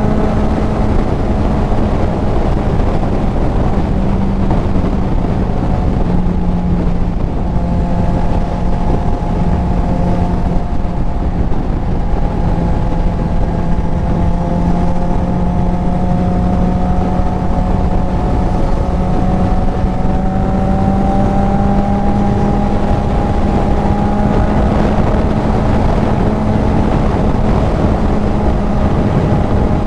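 Kawasaki Z900's inline-four running through a CS Racing full exhaust at a steady cruise, its note holding nearly constant with slight dips and rises. Wind rushes over the helmet-mounted microphone.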